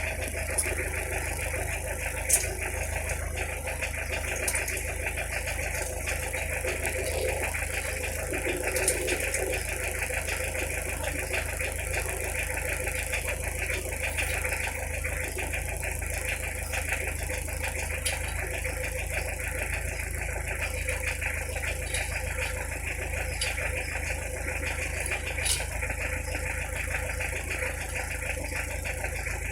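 Toyota 1C four-cylinder diesel engine of a 1990 Corolla running steadily, with a few faint clicks over it.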